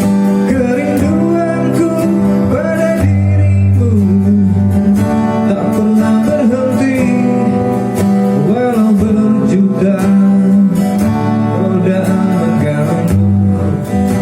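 Acoustic guitar strummed steadily while a voice sings a slow, gliding melody.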